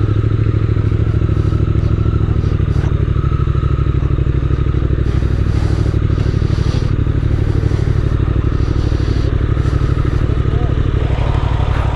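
Triumph Speed Twin 1200's parallel-twin engine idling steadily, with an even low pulse.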